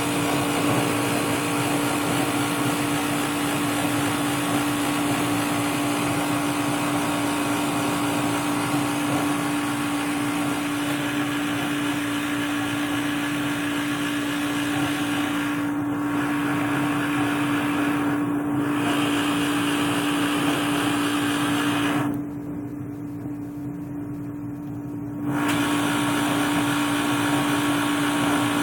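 Home furnace running with a steady whooshing noise over a constant hum. About 22 seconds in, the higher part of the noise drops away for about three seconds, leaving the hum, then comes back.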